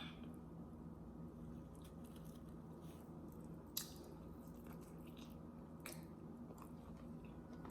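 Faint chewing of rotisserie chicken, with a few soft mouth clicks, over a low steady hum.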